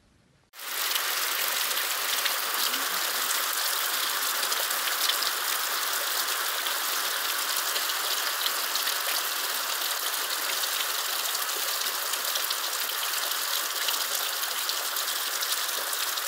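Heavy rain falling steadily: a dense hiss full of fine pattering drops, starting suddenly about half a second in.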